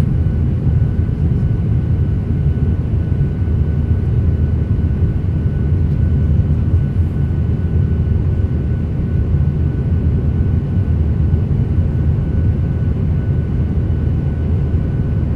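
Steady low rumble of a passenger airliner's cabin, from the engines and airflow, with a faint high steady whine above it.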